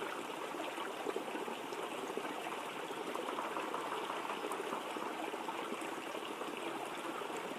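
Waterfall running, a steady even rush of falling water.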